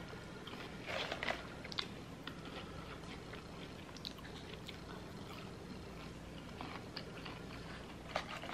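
A person chewing crispy curly fries close to the microphone: soft, scattered crunches, with a few louder bites about a second in.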